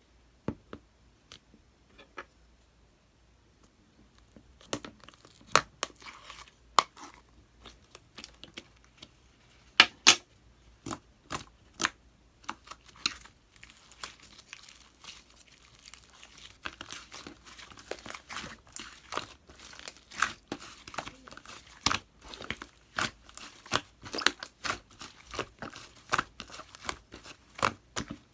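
White slime with pink clay being kneaded and squished by hand, making sharp wet clicks and pops. The pops are sparse for the first few seconds, then come thick and fast with a crackling texture.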